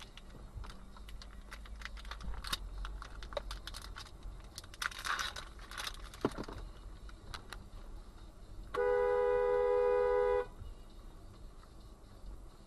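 A car horn sounds once, held steady for nearly two seconds before cutting off. Before it come scattered light clicks and rattles.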